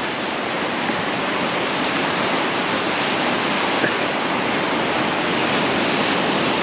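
Steady rushing of surf breaking on a beach.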